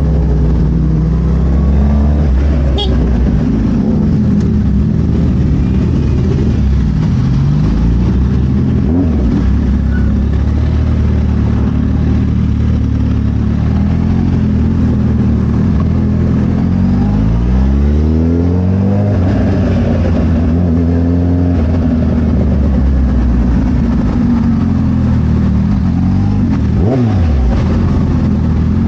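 Suzuki Hayabusa's inline-four engine through a Brocks full exhaust under way, its pitch rising and falling repeatedly as it accelerates and eases off, with a strong climb of revs about two-thirds of the way through.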